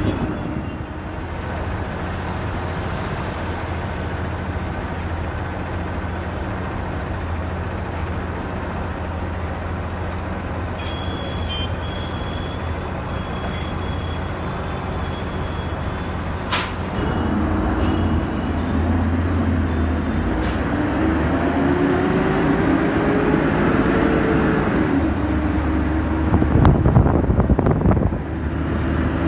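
Engine of a non-AC DTC city bus running, heard from inside the bus, with steady road noise. Past the middle the engine gets louder and its note rises as the bus speeds up, with a sharp click just before.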